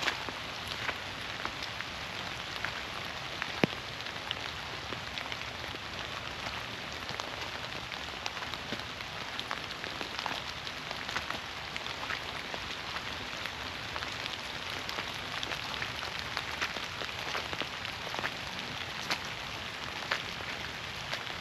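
Steady rain falling through the forest, with many sharp individual drops ticking close by on leaves and other surfaces; one drop about three and a half seconds in stands out.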